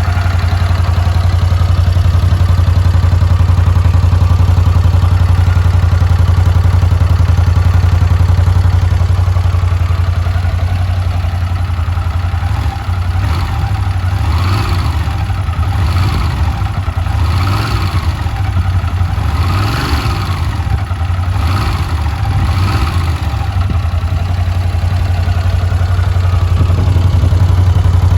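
A Honda GL400 Wing's longitudinal water-cooled V-twin idling steadily. About halfway through, the revs rise and fall in about six short throttle blips, then the engine settles back to an even idle.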